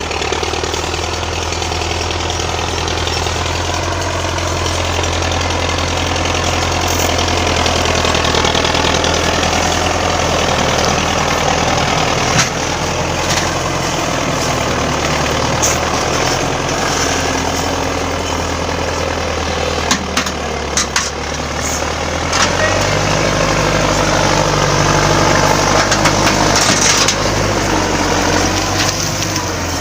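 Tractor engine running steadily, its low note shifting about two-thirds of the way through, with a few sharp clicks or knocks along the way.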